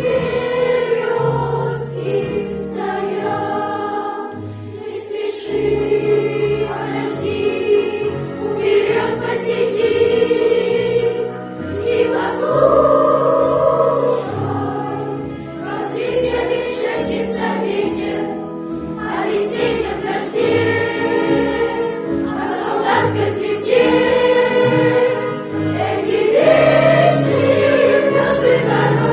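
A school cadet choir singing a patriotic song in Russian, many voices together in sustained phrases.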